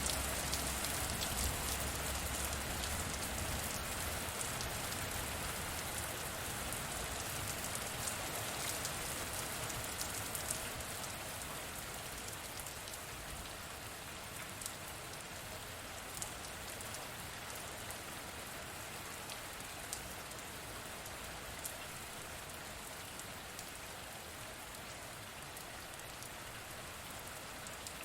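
Steady rain falling, a dense hiss with many individual drops ticking sharply. A low rumble under it fades away over the first few seconds, and the rain eases slightly in loudness as it goes on.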